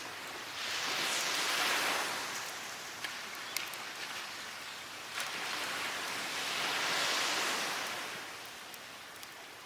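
Surf washing onto a beach: two waves swell and fade, one about a second in and one around seven seconds, with a few small crackles from a wood fire in between.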